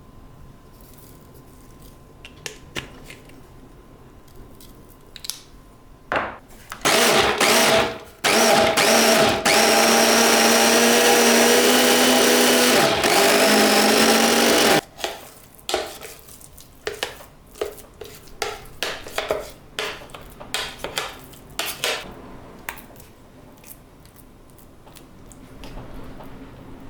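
Electric blender motor run in two short pulses, then held on for about five seconds before it stops. Light clicks and knocks of kitchen handling come before and after.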